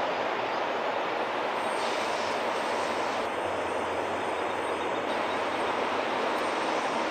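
Rhaetian Railway metre-gauge electric train running over a curved viaduct: a steady rolling noise of wheels on rails, with a faint high wheel squeal on the curve for a couple of seconds midway.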